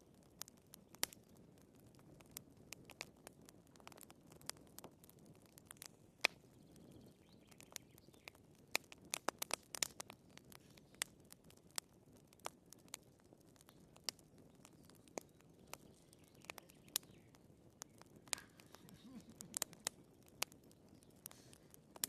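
Burning firewood crackling: irregular sharp pops and snaps, some louder than others, over a faint low rush of the flames.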